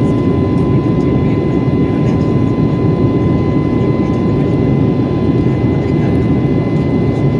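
Steady cabin noise of an Airbus A321neo airliner in flight: a deep, even roar of the jet engines and airflow, with a thin steady high tone running through it.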